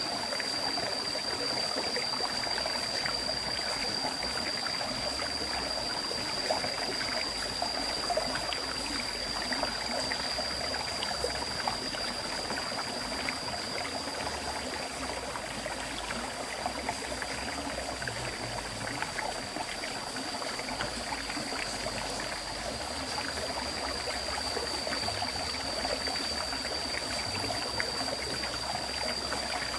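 River water flowing steadily over a stream bed, a continuous rush full of small splashes and trickles. A steady high-pitched tone sits over the water.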